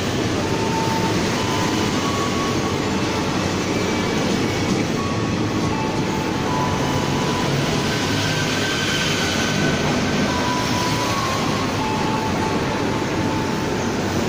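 Ex-JR 205 series electric commuter train running out of the station, a steady rumble of wheels on rail with no single loud event.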